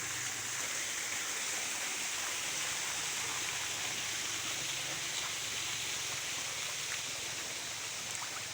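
Flowing water of a forest stream, a steady even rush with no breaks.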